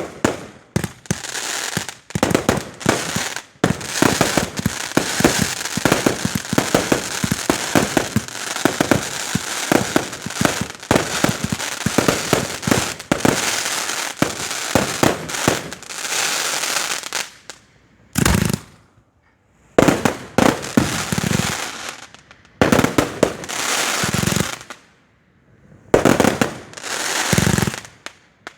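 Firework display: a dense barrage of bangs and crackling, followed by more separate reports with a few deeper booms in the second half. The sound cuts out abruptly several times.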